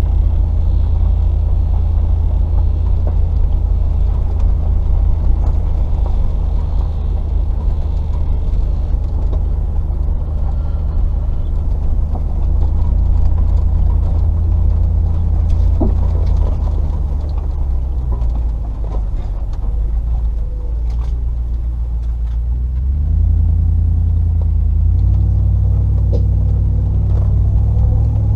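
Range Rover P38's 4.0-litre V8 engine running at low speed off-road, easing off about two-thirds of the way through, then pulling again.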